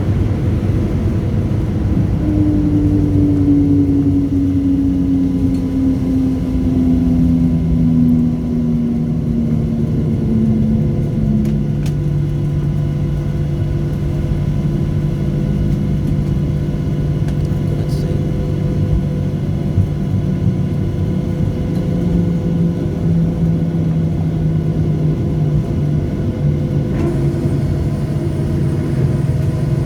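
Cabin noise of a Boeing 737-700's CFM56 jet engines after landing. A low engine tone falls in pitch over about ten seconds as the engines spool down toward idle, then a steady low hum and rumble continue.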